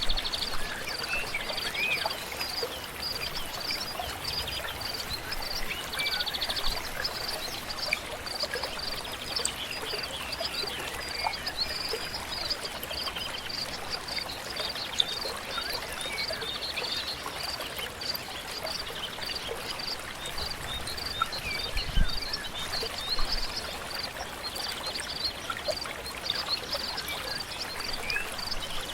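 A river or stream flows steadily while birds sing with short, scattered calls. A continuous high-pitched chirping runs through it, and a single low thump comes late on.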